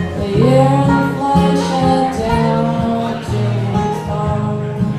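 Live Americana folk song's instrumental ending: acoustic guitar playing along with a lead melody of held notes, one of which glides up in pitch shortly after the start.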